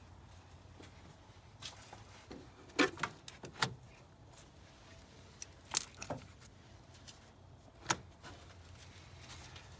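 Handling noise from hand work on a car: a few short, sharp clicks and knocks spread through, over a faint steady hum.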